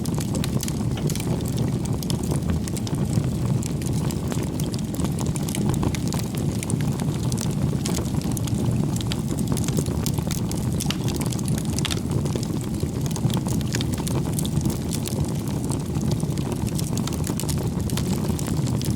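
Wood campfire burning: a steady low rumble of flames with frequent small crackles and pops from the burning logs.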